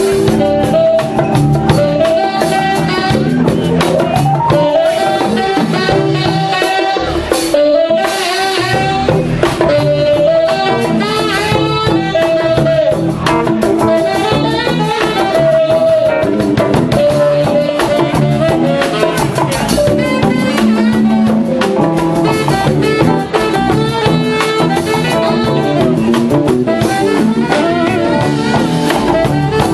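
Live band with drum kit, bass, keyboards and percussion playing a jazzy, Latin-tinged groove, with a melodic lead line over it.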